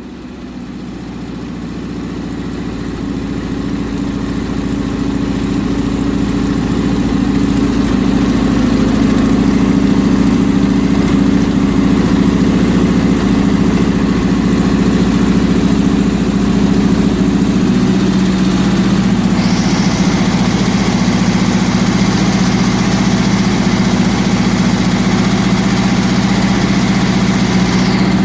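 Freshly rebuilt air-cooled Volkswagen single-port flat-four engine running steadily on its break-in run. It grows louder over the first several seconds, its note shifts slightly a little past halfway, and a steady hiss joins soon after.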